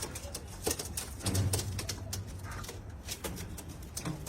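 Domestic pigeons cooing, with low throaty pulses and scattered sharp clicks and rustles from the birds.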